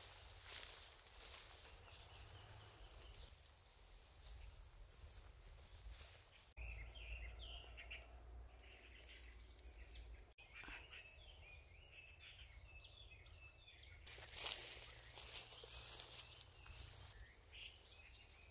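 Faint outdoor ambience: an insect trilling on one steady high note, with birds chirping in short calls through the middle part.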